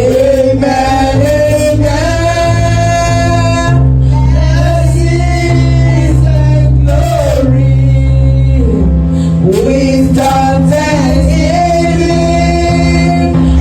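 Gospel song: a lead voice singing over sustained keyboard chords and a steady bass.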